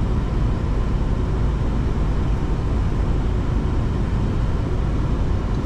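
Steady cockpit noise of a Boeing 737-800 on final approach: a constant rush of airflow and engine noise, heaviest in the low end, with a faint steady tone above it.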